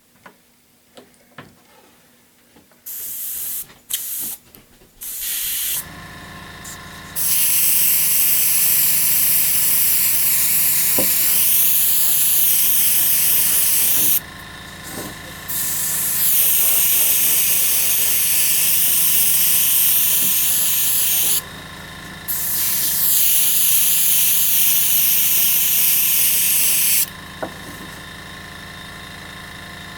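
Compressed-air paint spray gun spraying a colour coat: a few short hisses, then three long spells of loud spray hiss. Underneath, an air compressor runs with a steady hum.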